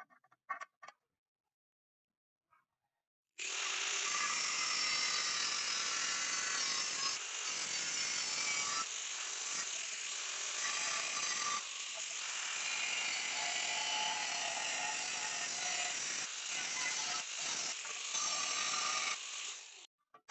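Harsh, steady metalworking noise that starts suddenly about three seconds in, runs with a few short breaks, and stops just before the end.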